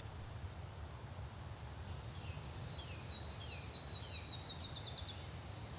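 Faint natural ambience: a bird calling in short descending chirps that quicken into a rapid run of down-slurred notes a few seconds in, over a steady high insect drone and a low rumble.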